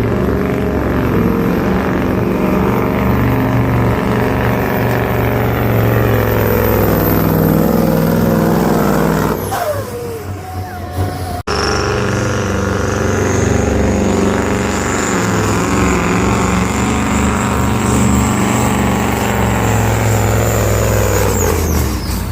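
Pulling truck's big diesel engine running flat out under load with a high turbo whistle, dropping away about nine seconds in as the turbo winds down. After a sudden break, a second full-power run follows with a rising turbo whine, easing off near the end.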